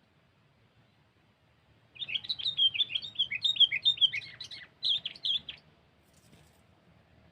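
Sooty-headed bulbul (kutilang) singing a quick run of chirpy, warbling notes for about three and a half seconds, starting about two seconds in, with a brief break near the end.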